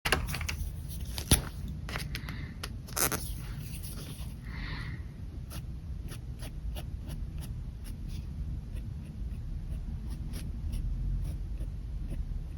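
Pen drawing on paper: many short scratchy strokes and light taps of the pen tip, with a sharper tap about a second in. A steady low hum runs underneath.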